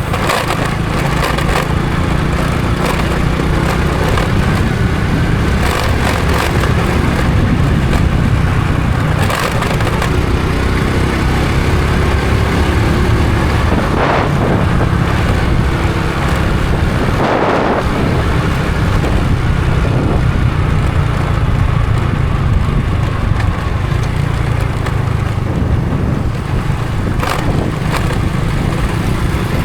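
Honda Supra X 125 FI's single-cylinder four-stroke engine running steadily under way, with wind and road noise and a few short knocks and crackles from the road.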